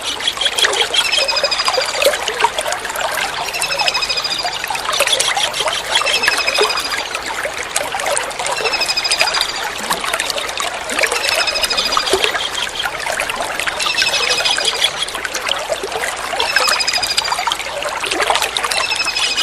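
Tengkek udang (kingfisher) calls: a short, high, rattling trill repeated about every two and a half seconds, over a steady trickle of running water.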